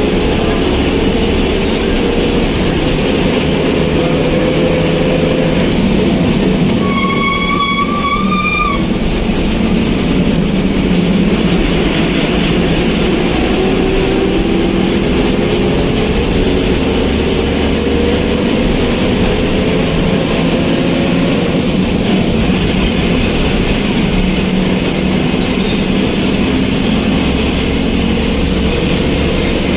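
Steady running noise of a moving vehicle heard on board, with engine or drive tones slowly rising and falling. About seven seconds in, a horn sounds once for about two seconds.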